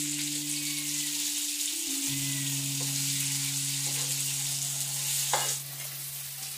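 Food sizzling in hot oil, an even hiss that drops away sharply about five and a half seconds in. Background music of slow, held notes plays underneath.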